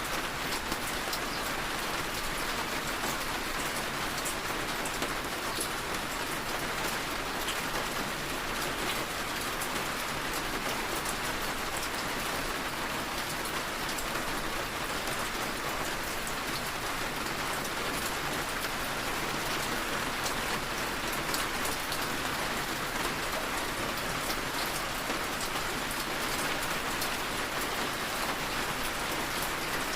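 Steady rain falling, with fine scattered drop taps on a window.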